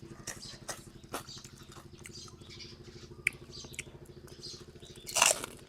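Close-up eating sounds from a bowl of boat noodles: soft chewing and mouth clicks over a low steady hum, then a loud slurp of noodles and broth near the end.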